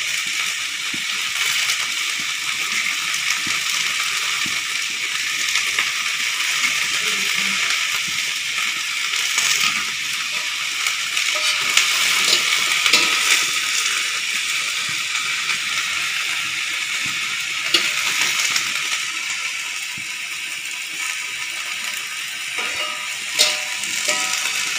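Long beans sizzling as they stir-fry in an aluminium wok, a steady frying hiss, with a few sharp clicks and scrapes of the metal spatula against the pan.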